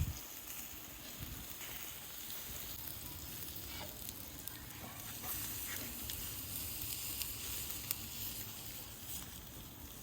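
Beef-rib kebabs sizzling over hot charcoal: a steady hiss with scattered small crackles and pops.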